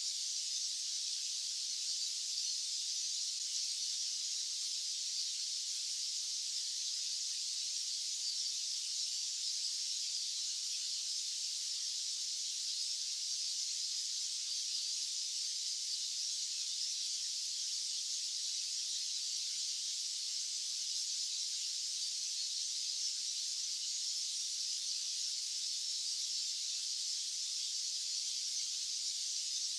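Steady, unchanging white-noise hiss, high-pitched with no low end.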